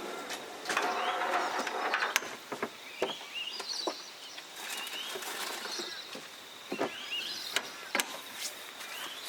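Small birds chirping: many short, quick calls repeating over and over, with a few sharp clicks or taps scattered among them.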